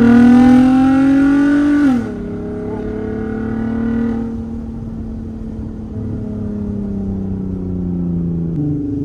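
Volkswagen Golf R32's 3.2-litre VR6 engine heard from inside the cabin, revving up hard under acceleration, then dropping sharply in pitch and loudness about two seconds in as it shifts up a gear. The revs climb a little again, then fall away slowly as the car eases off.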